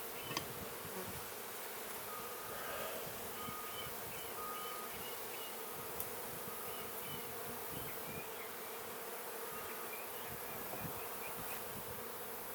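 Honeybees humming steadily around an opened hive during a frame-by-frame inspection: a low, even drone from many bees.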